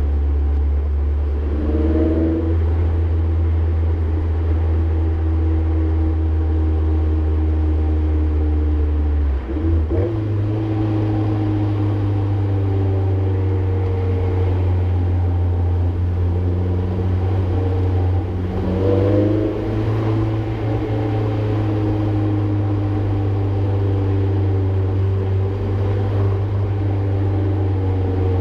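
Mazdaspeed 3's turbocharged 2.3-litre four-cylinder, with a cattless downpipe and HKS cat-back exhaust, running under light load as a steady low drone heard inside the cabin. About ten seconds in the drone dips briefly and comes back a step higher in pitch. Short rising-and-falling whines come near two seconds and again near nineteen seconds.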